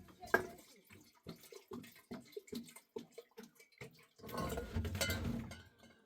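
Water splashing and being poured, with a run of small knocks and splashes, then a louder rush of water for about a second near the end.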